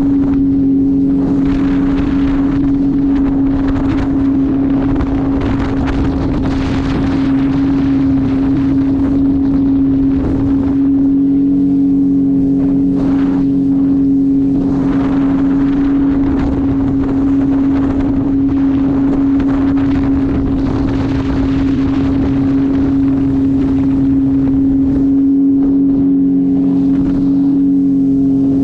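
Jet ski engine running steadily at cruising speed, one constant pitch, with wind buffeting the microphone and surges of rushing water and spray.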